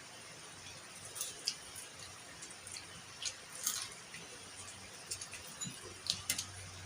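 Quiet eating sounds: a few scattered small wet clicks and smacks of someone chewing tilapia.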